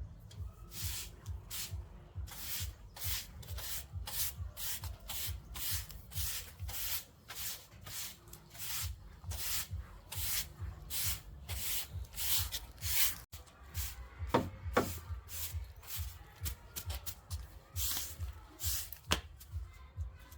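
Rhythmic scraping strokes, about two to three a second, of a hand tool rubbing over a rough surface, kept up steadily throughout.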